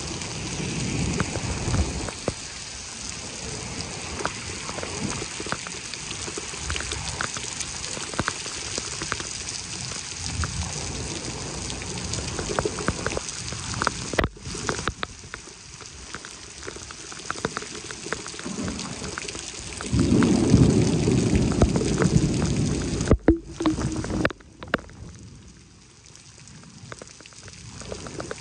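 Heavy rain falling steadily, with the patter of close drops. About twenty seconds in a deep low swell rises for a few seconds, and the sound cuts out briefly twice.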